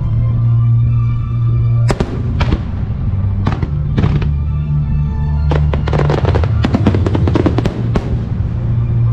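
Fireworks shells bursting over loud music from the show's loudspeakers: a few separate bangs about two to four seconds in, then a rapid string of many bangs and crackles in the second half.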